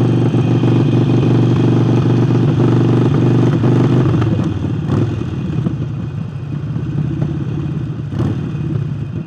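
Harley-Davidson Forty-Eight's air-cooled 1200 cc V-twin, fitted with a new aftermarket air intake, running steadily under way; about four seconds in it drops back to a quieter, lower note.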